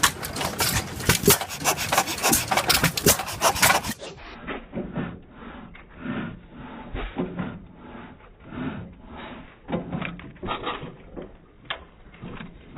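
Bauer gas engine running, giving uneven low puffs and clicks. A dense, rapid clatter fills the first few seconds.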